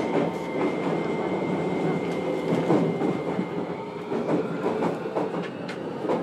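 Running noise inside a JR Kyushu 303-series electric train's motor car: wheels rumbling on the rails with clicks over the rail joints. A steady high whine fades out about three seconds in.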